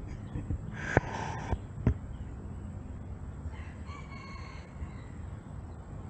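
A bird call: one pitched call lasting about a second, heard past the middle. Two sharp knocks from handling, with a brief rustle between them, come about a second and two seconds in.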